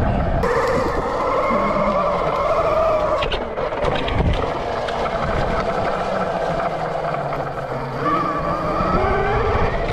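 Rawrr Mantis 72-volt electric dirt bike's motor whining while riding, its pitch sagging and rising with speed and climbing near the end, over a low rumble.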